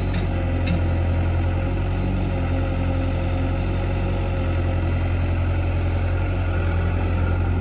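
Heavy diesel engine running steadily at an even speed, with two light clicks near the start.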